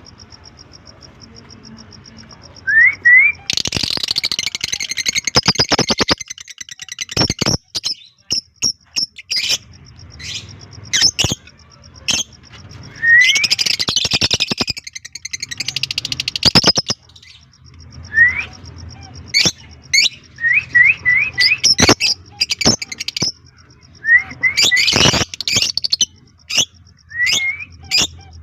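Fischer's and blue masked lovebirds chirping: short rising chirps and sharp clicks, broken by two bursts of dense rapid chatter, about three seconds in and again about thirteen seconds in.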